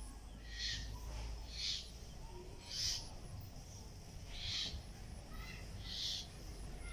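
A bird calls over and over, a short high call about once every second or so, five or six times, over a steady low rumble.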